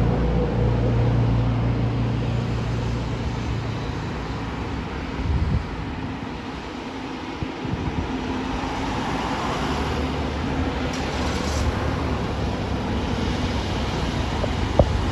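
Steady low engine rumble with a haze of noise, easing off around the middle and then building again.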